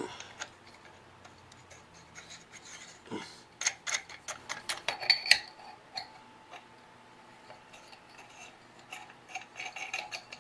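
Scattered light clicks, taps and scrapes of small fixture parts being handled and fitted, over a faint steady hum.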